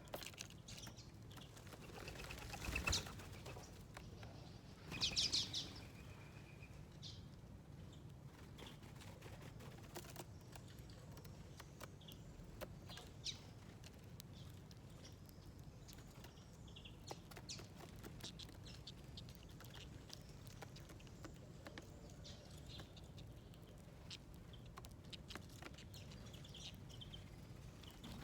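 Small wild birds at a seed feeder: a brief flutter about three seconds in, a louder cluster of high chirps about five seconds in, then scattered short chirps and light ticks of pecking at the seeds.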